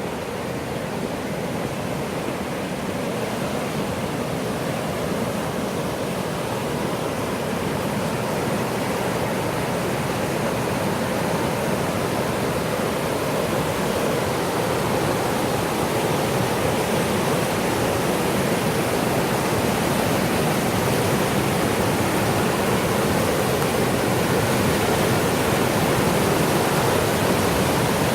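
Millstone River water rushing steadily over rocks, growing gradually louder.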